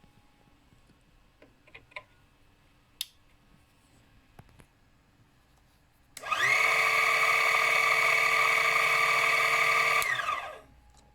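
A small electric motor is switched on about six seconds in, spins up to speed and runs with a steady high whine for about four seconds, then is switched off and winds down, falling in pitch. Before it, a few faint clicks and knocks.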